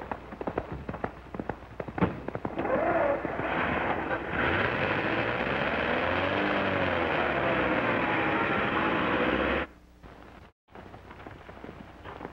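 Old open touring car's engine sputtering and popping irregularly, then running loudly with its pitch rising and falling. It cuts off abruptly and gives way to faint galloping hoofbeats.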